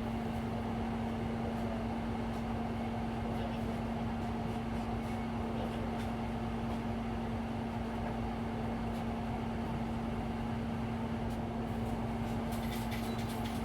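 Steady hum inside a Hino Blue Ribbon City Hybrid city bus standing at a stop, holding one constant low tone. A few light clicks and jingles come near the end.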